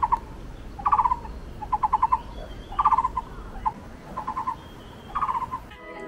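A bird calling: about seven short bursts of four or five rapid notes each, roughly once a second.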